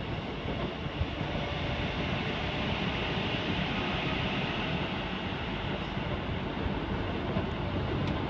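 A passenger train running at speed, heard from inside the car: a steady rumble and rush of wheels on rail.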